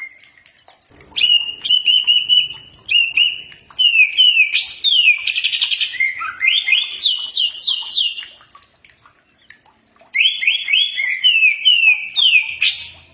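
Cucak ijo (greater green leafbird) singing: loud, quick runs of whistled notes sliding up and down, in two bursts with a short pause just before the tenth second.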